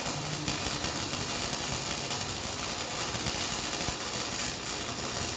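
Small 120-volt wire-feed welder laying a bead on a steel test piece: a steady, even arc crackle and hiss. The welder sets the heat afterward as probably a little hot.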